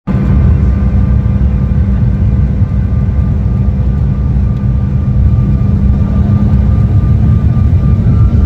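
Airliner cabin noise during the landing approach: a loud, steady low rumble of jet engines and rushing air, with a few faint steady tones over it.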